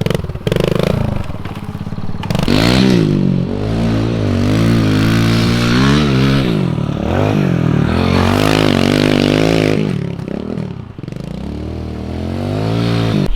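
Kawasaki KLX110 pit bike's single-cylinder four-stroke engine being ridden, its pitch rising and falling as the throttle opens and closes. It drops off about ten seconds in and picks up again near the end.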